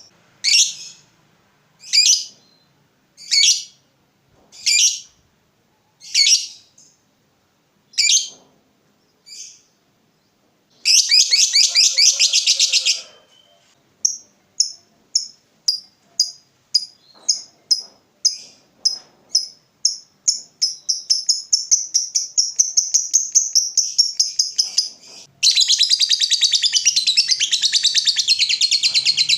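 Lovebird calling: single sharp, high calls about every second and a half that fade away, then a short burst of rapid chatter, then calls that quicken into a long, loud, unbroken chattering trill, the 'ngekek' that lovebird keepers prize.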